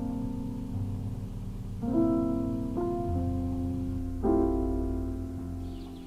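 Slow piano music: sustained chords over a held low bass, with a new chord struck about every one to two seconds.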